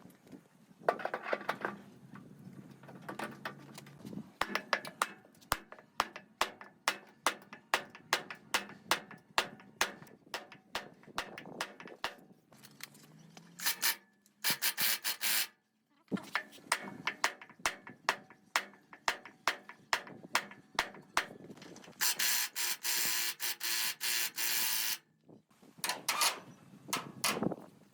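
Hand work on metal machine parts: a run of sharp taps and clicks, about two or three a second, broken twice by loud bursts of hissing.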